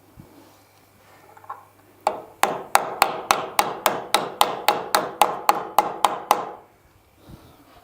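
A hammer striking steadily, about sixteen blows at roughly three a second starting about two seconds in, tapping a dynabolt expansion anchor home into its drilled hole.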